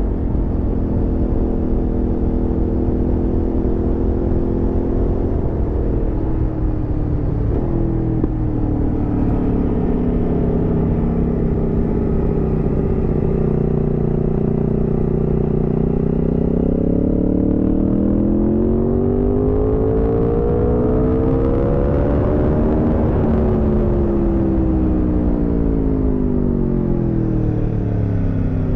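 Aprilia Tuono V4 motorcycle's V4 engine running under way. It holds a steady pitch, drops about six seconds in, then climbs steadily as the bike accelerates and falls again as it slows near the end.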